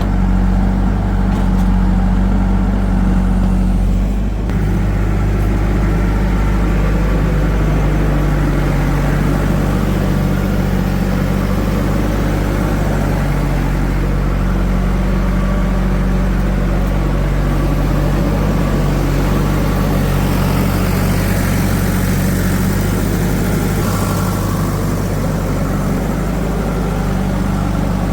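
Heavy diesel engine running close by, steady and loud, its engine speed shifting a little a few times.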